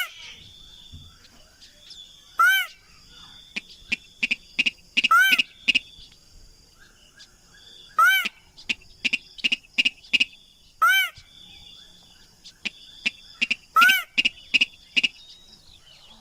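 Recorded lure call of a paddy-field rail (sintar): short arched notes repeated about every three seconds, with bursts of sharp ticking notes between them.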